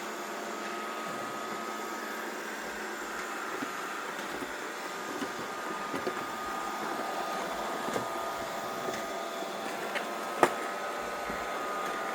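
Robot vacuum cleaner running with a steady motor hum and a thin whine, with a few light knocks, the sharpest about ten and a half seconds in.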